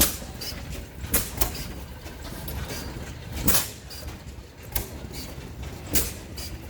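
Several slow-running oil field engines firing, each with a sharp exhaust pop, the pops landing at uneven intervals about once a second over a low steady rumble.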